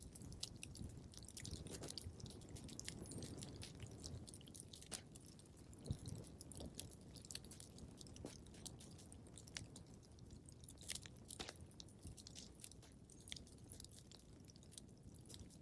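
Wood fire crackling quietly in a fireplace: irregular snaps and pops over a low rumble of flame, with one louder pop about six seconds in.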